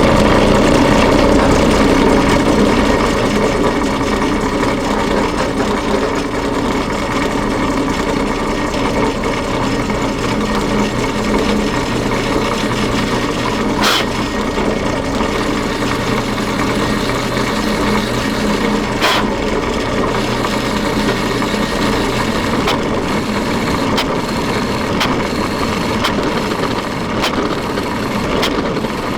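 A motor-driven workshop tool running steadily, with a couple of sharp ticks partway through.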